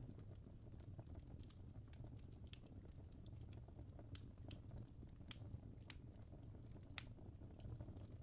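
Faint fireplace crackling: scattered sharp pops and snaps at irregular intervals over a low, steady rumble.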